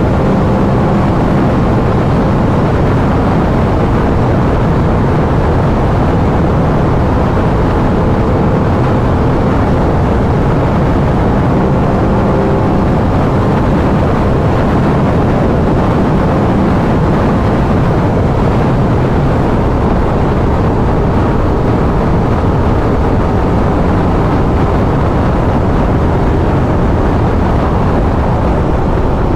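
Aprilia RS 660's parallel-twin engine, on the stock exhaust, droning steadily at highway cruising speed. Heavy wind rush on the microphone sits over the engine.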